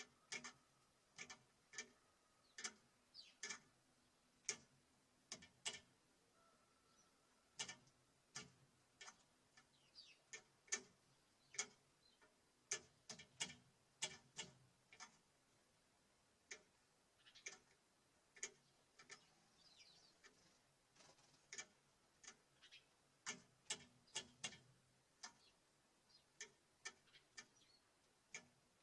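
Small birds pecking at seed on a wooden bird feeder: irregular sharp taps, about one or two a second and sometimes in quick pairs, with a few faint chirps.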